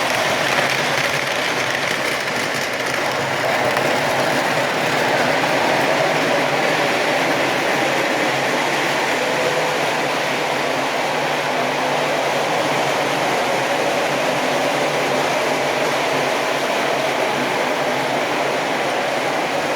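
MTH model subway trains running through a layout station without stopping: a steady, even rolling and motor noise with no stops or sharp clicks.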